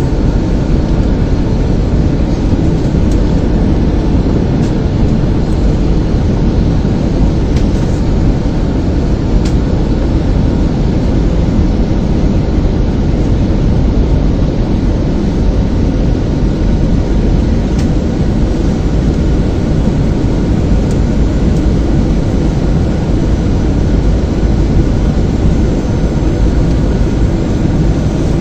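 Jet airliner cabin noise: a loud, steady, low drone of engines and rushing air, heard from inside the passenger cabin, with a few faint steady tones above it.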